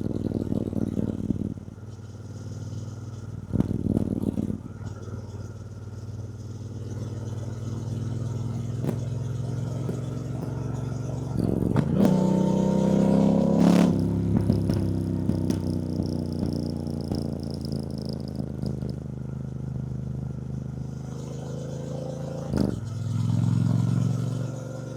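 2024 Triumph Bonneville T120's 1200 cc parallel-twin engine running under way. About halfway through it pulls harder and louder, the pitch climbing, then falling away again. A few sharp knocks are heard along the way.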